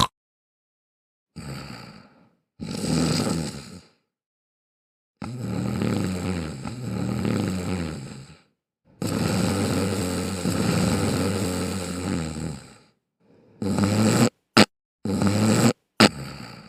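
Snoring sounds in several separate stretches, cut apart by dead silence, with a few short bursts near the end.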